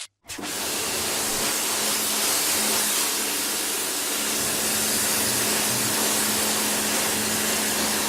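Car-wash pressure washer spraying water with a steady hiss over a faint steady hum. It starts abruptly just after a brief dropout and cuts off suddenly at the end.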